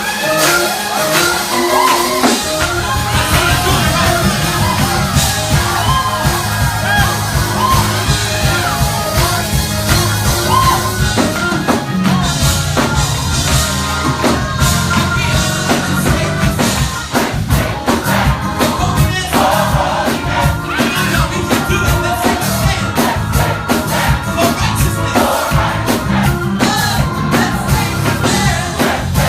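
Live gospel choir singing with a band. A bass line comes in about two seconds in, and the drums and cymbals get busier from about the middle, with shouts from the crowd.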